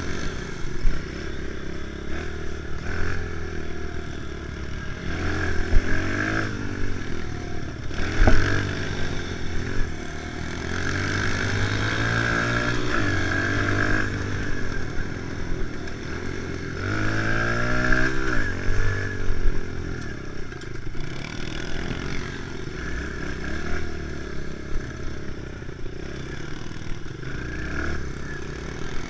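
Kawasaki KLX110 pit bike's small single-cylinder four-stroke engine being ridden hard on dirt, revving up and easing off again and again, its pitch climbing several times as it pulls. A sharp knock comes about eight seconds in.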